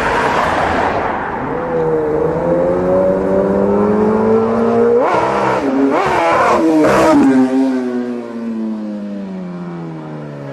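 Sportbike engine pulling up steadily through the revs, with a few quick rev jumps and drops as it shifts gear about five to seven seconds in, then the revs falling away steadily as it slows.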